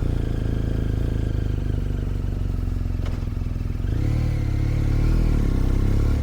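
Motorcycle engine running steadily, its note rising and wavering about four seconds in as the throttle is blipped, with a single click about three seconds in.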